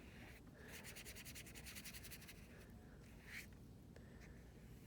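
Faint, quick back-and-forth scrubbing of a water-reservoir paintbrush on paper for about a second and a half, then a single short stroke.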